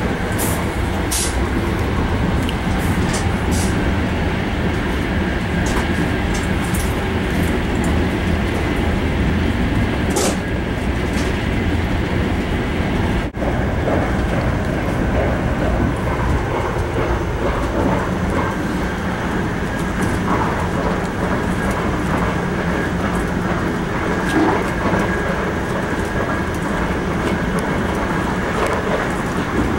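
Sapsan high-speed train running at speed, heard from inside the carriage: a steady rumble and rush of running noise. A few short high ticks come in the first ten seconds or so, and the sound briefly drops out about 13 seconds in.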